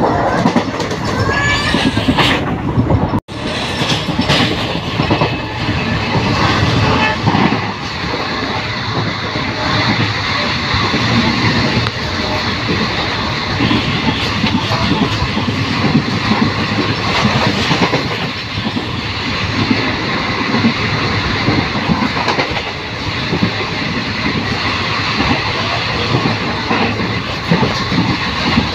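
Passenger train running at speed, wheels clattering over the rail joints, heard through an open door or window, with another train's coaches rushing past close by on the next track. The sound cuts out for an instant about three seconds in.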